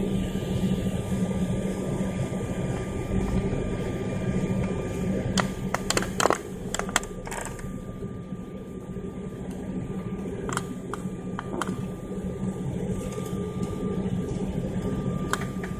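Steady drone of an airliner's cabin, with engines and air conditioning humming, and a scatter of sharp clicks and knocks near the middle.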